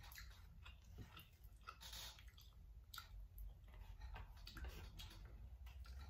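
Faint chewing of a mouthful of spicy instant noodles, with soft, wet mouth clicks every second or so.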